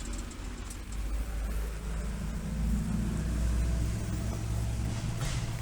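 A motor vehicle's engine running with a low, steady hum, growing louder over the first few seconds and easing a little near the end, as of a car passing or idling close by.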